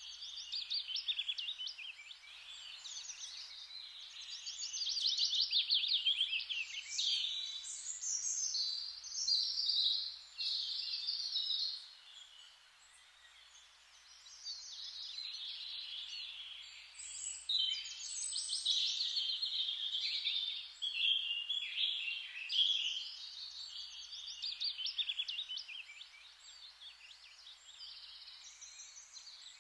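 Several songbirds singing at once, a dense chorus of chirps, trills and whistled phrases that thins briefly about twelve seconds in before picking up again.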